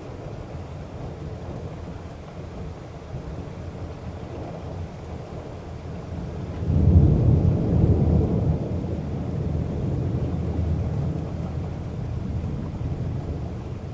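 Thunderstorm: steady rain with a low background rumble, then a loud roll of thunder breaks about halfway through and rumbles on, slowly fading.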